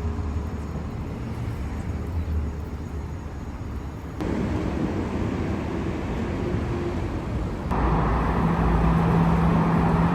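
City street ambience with a steady low vehicle rumble, in clips cut together: the sound changes abruptly about four seconds in and again near eight seconds, where it gets louder and a steady low hum joins.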